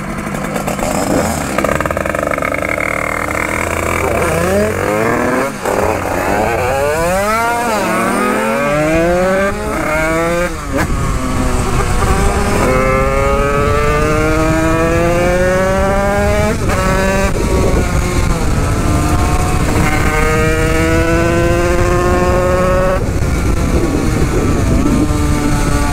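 Tuned two-stroke 50cc-class dirt bike engine accelerating hard through the gears: the revs climb steadily and drop back at each upshift, about three times, then hold near the end. Wind rumbles on the microphone as speed builds.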